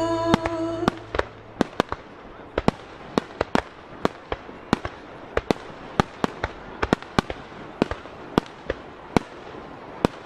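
Starmine aerial fireworks shells bursting in a rapid, irregular run of sharp bangs, about two or three a second. Music playing over them cuts off about a second in.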